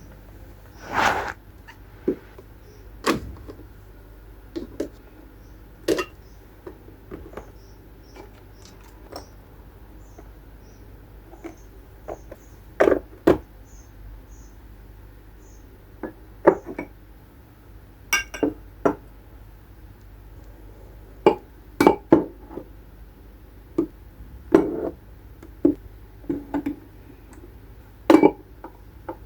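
Irregular clinks and knocks of household objects being handled and set down, some with a brief ring like glass or dishes.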